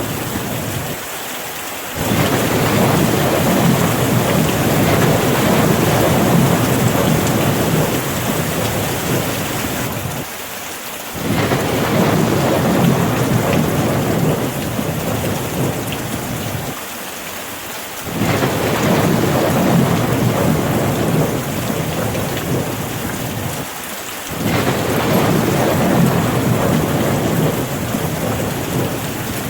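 Steady rain falling, with a deep low rumble that swells up and dies away in waves about every seven seconds.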